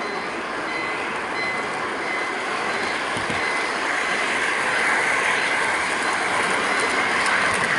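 HO-gauge model freight train running, heard from a camera riding on one of its container wagons: a steady rolling rush of the wheels on the track that grows a little louder after the middle, with a faint high tone coming and going.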